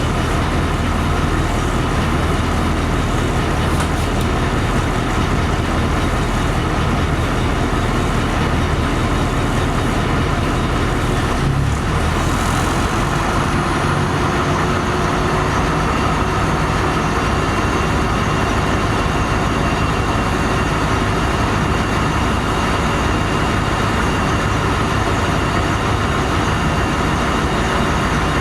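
LiAZ-5256.46 city bus under way, heard from inside: a steady engine hum under running noise. About twelve seconds in, the engine note briefly breaks and then settles at a different pitch.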